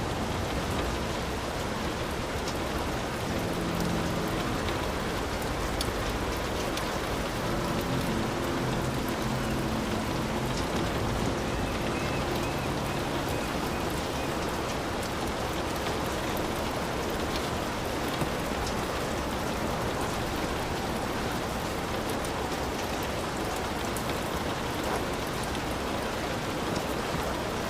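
Heavy rain falling steadily: an even hiss with individual drops ticking through it.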